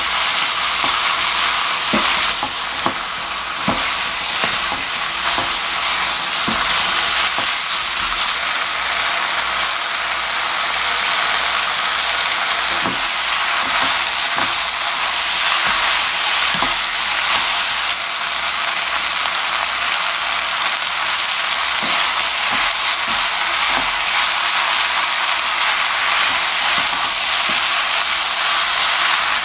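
Pork and sour kimchi sizzling steadily in a frying pan as they are stir-fried, with scattered clacks and scrapes of a wooden spatula and chopsticks against the pan.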